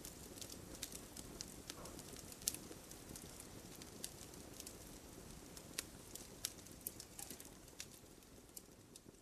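Wood campfire crackling: irregular sharp pops and snaps over a low, steady rush of burning wood, with one louder pop about two and a half seconds in. It grows a little fainter near the end.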